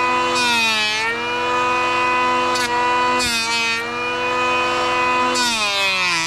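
Two-stroke gas chainsaw held at high revs and cutting wood. Its pitch sags with a burst of chip noise as the chain bites into the log, three times. Near the end the pitch falls away as the throttle is let off.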